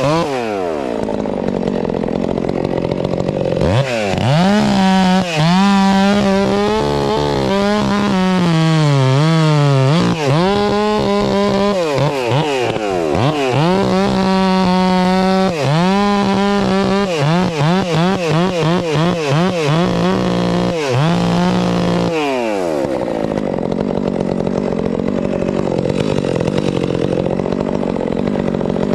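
Gas chainsaw cutting into an oak limb. It drops to idle at first, then about four seconds in revs to full throttle and runs under load, its pitch sagging and recovering as the chain bites, with several brief throttle releases. Near the end it falls back to idle for the last several seconds.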